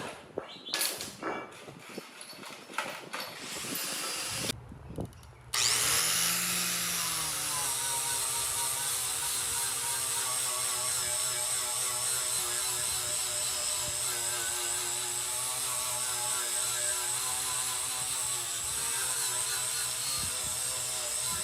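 Scattered knocks of metal handling, then about five seconds in an electric power tool starts, winds up to speed and runs steadily.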